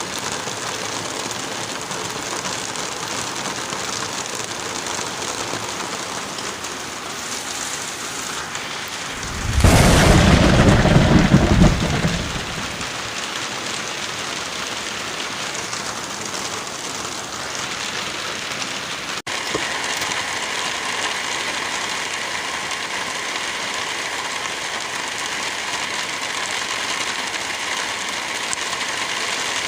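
Steady rain and wind noise. About ten seconds in, a much louder, deep rumbling burst lasts roughly two and a half seconds. The texture changes abruptly a little past the middle.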